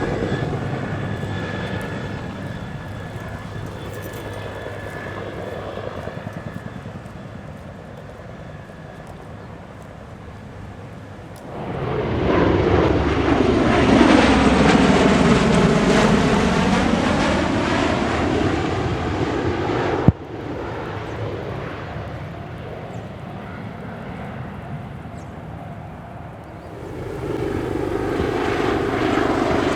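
Aircraft noise: a UH-1N Twin Huey helicopter's rotor and turbines fairly quietly at first. About twelve seconds in, it gives way abruptly to a USAF CV-22 Osprey tiltrotor passing loudly, its tone sweeping down and back up as it goes by. The Osprey sound drops back after a sudden break, then swells again near the end.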